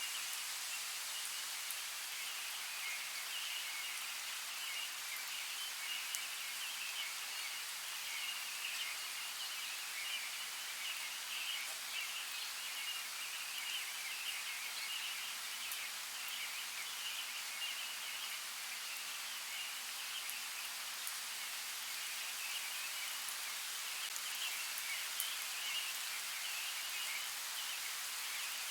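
Steady rain: an even hiss of falling water with scattered faint ticks of drops, unchanging throughout.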